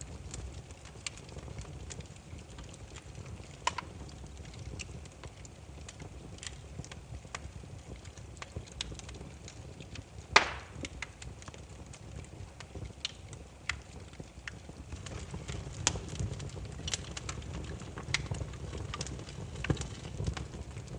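Burning firewood crackling: irregular sharp pops and snaps over a low steady rumble of flames, with one much louder pop about ten seconds in.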